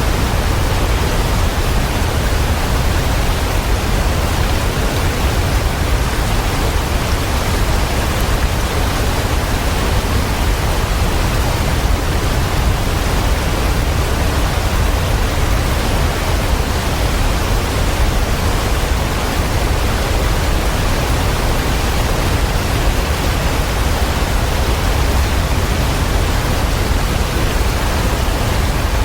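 Waterfall rushing steadily: a constant, unbroken wash of water noise, heaviest in the deep low end.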